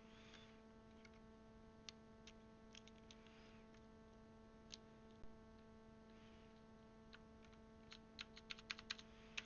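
Plastic keycaps being pushed onto the switches of a mechanical keyboard: faint, scattered clicks, then a quick run of clicks near the end.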